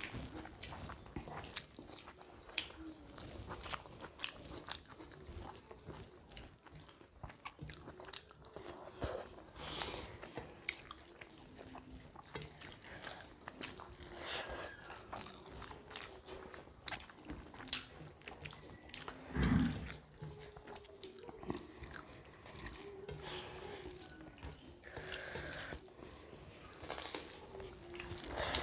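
Close-up eating sounds of two people chewing and smacking mouthfuls of rice with chicken liver, gizzard and egg curry eaten by hand, with many short wet mouth clicks and fingers mixing rice on steel plates. One heavy low thump about two-thirds of the way through.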